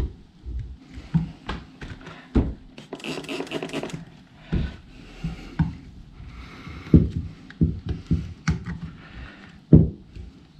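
Screwdriver prying and scraping under a rubber motorcycle handlebar grip to work it loose from the bar, with irregular knocks and scrapes of handling.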